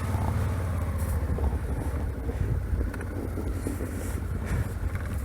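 Suzuki V-Strom 650's V-twin engine idling while the motorcycle stands, with wind rumbling on the microphone.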